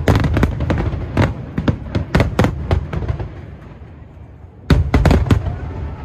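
Aerial fireworks bursting in rapid, irregular volleys of sharp bangs with a deep rumble underneath. The bangs come thick for the first three seconds, ease off into a rumbling lull, then a fresh cluster of bangs starts near the end.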